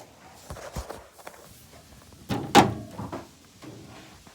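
A heavy thunk about two and a half seconds in, with a few lighter knocks before it: objects being handled and set down on a hard surface.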